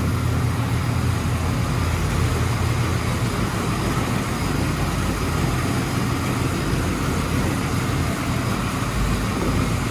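Doug Rippie LT1 383 stroker small-block Chevy V8 idling steadily and smoothly on an engine dyno, just after start-up. The idle is low with little lope, which the builders take as the sign of a mild camshaft.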